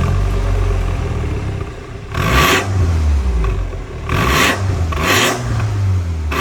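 MINI Cooper S B48 2.0-litre turbocharged four-cylinder running through an MS-R valved cat-back exhaust and straight downpipe. It idles with a low rumble and is blipped about three times, each rev a short raspy rise.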